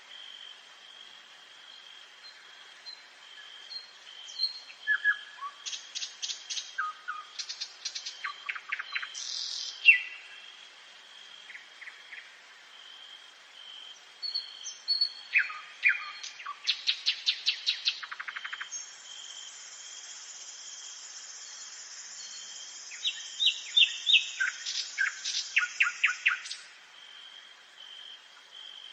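Nightingale singing in separate phrases of fast repeated notes, clicks and whistles, with pauses between them. A steady thin high tone runs underneath, and a long high buzz sounds through the second half.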